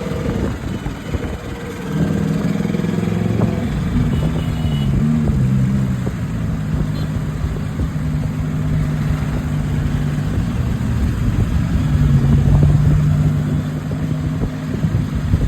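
Motor vehicle engine running on the road, a steady low hum over road noise, its pitch wavering briefly about four seconds in.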